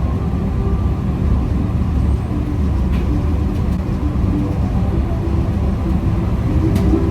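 Food truck driving, with a steady low engine and road rumble.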